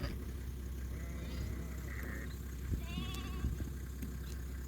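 Sheep bleating, about three short calls over a steady low rumble.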